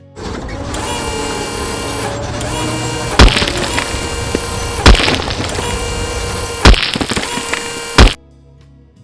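Heavy machinery running steadily, broken by four loud, sharp impacts roughly a second and a half apart. The sound cuts off suddenly near the end.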